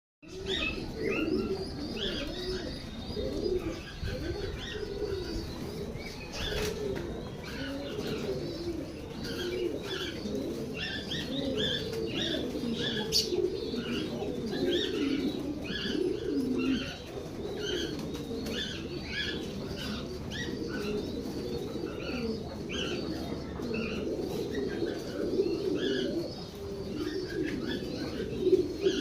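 A flock of fancy pigeons cooing continuously, many overlapping low warbling coos, with short higher chirps scattered throughout.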